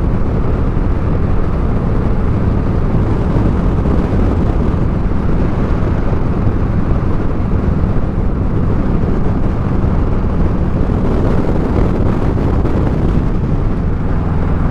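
Motorcycle engine running steadily at cruising speed, with wind rushing over the helmet microphone.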